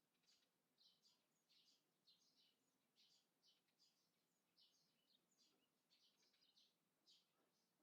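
Faint birds chirping outdoors: a continuous run of short, high chirps, several a second, over a soft background hiss.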